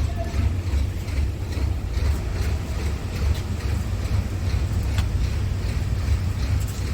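Scania P280 truck's diesel engine running with a steady low rumble, with wind buffeting the microphone.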